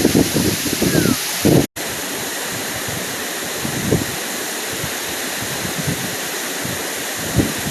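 Waterfall rushing: a steady, loud hiss of falling water, with irregular low rumbles mixed in during the first second or so. The sound cuts out completely for an instant at about a second and a half in.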